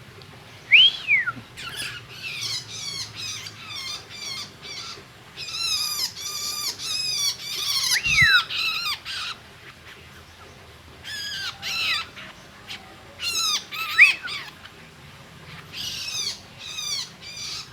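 Long-tailed shrike (cendet) calling in several runs of rapid, harsh chattering notes, with a few clear downward-slurred whistles mixed in. There is a brief low thump about eight seconds in.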